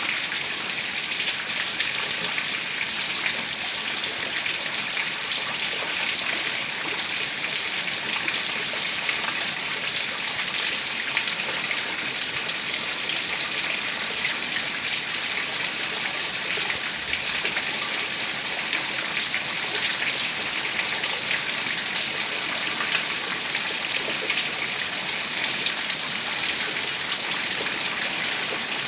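Heavy rain falling steadily, a dense even hiss of drops with fine pattering on surfaces.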